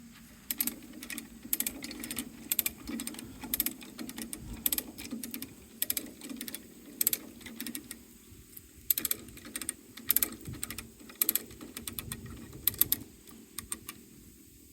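A hand ratchet being worked in quick strokes, clicking and clacking in irregular bursts over a low steady hum.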